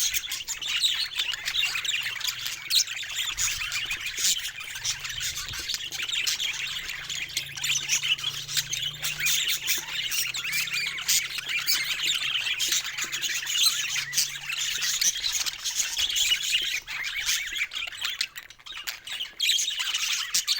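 Budgerigars chirping and chattering without pause, a dense mix of quick high warbling notes.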